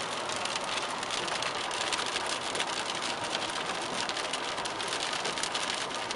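Heavy rain striking a car's roof and windshield, a dense, even stream of drop ticks, heard from inside the car.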